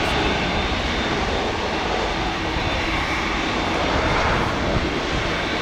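Jet engines of a Boeing 787-9 airliner running, a steady, even rush of noise with no change in pitch or level.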